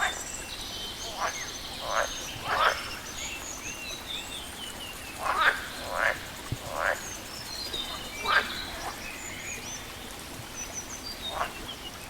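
Frogs croaking, about eight short calls at irregular intervals, with birds chirping in quick high notes behind them.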